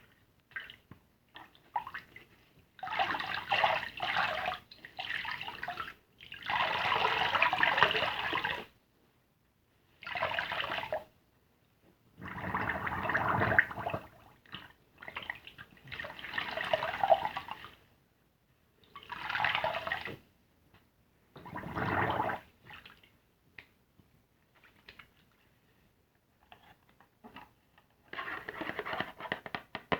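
Soapy car-wash sponge being squeezed and worked, a wet squishing of lather in about eight separate bursts of one to three seconds, with short pauses between.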